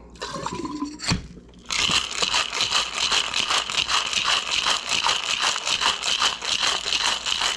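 Cracked ice clinking into a cocktail shaker, then a single knock. From about two seconds in, the shaker is shaken hard in a steady rhythm of about five strokes a second, the ice rattling inside.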